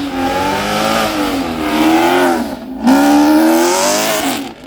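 A car engine revving loudly, its pitch rising and falling in two long pulls with a short break about two and a half seconds in. The sound falls away sharply near the end.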